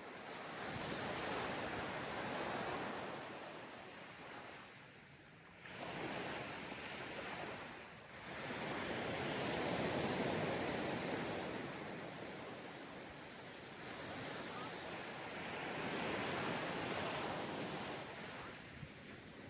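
Sea waves breaking and washing up on a sandy beach, in surges that rise and fall every few seconds, with some wind on the microphone.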